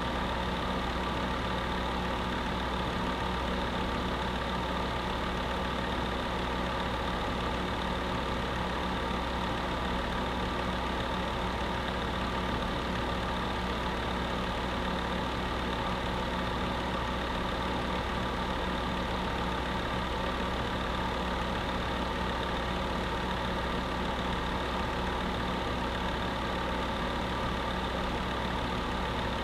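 Electric space heater running steadily: an even fan whir with a low, unchanging hum.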